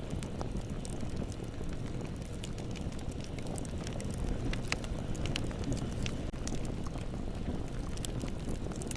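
Bonfire burning: a steady low rumble of flames with frequent sharp crackles and pops from the burning wood.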